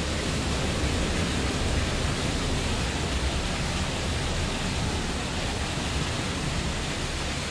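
Category 4 hurricane winds and driving rain, a steady rushing noise with the low end gusting and buffeting the microphone.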